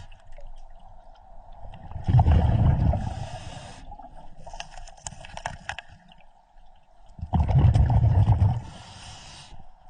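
Scuba diver breathing through a regulator underwater: two loud rumbling bursts of exhaled bubbles, about two seconds in and again about seven seconds in, each followed by the hiss of an inhalation.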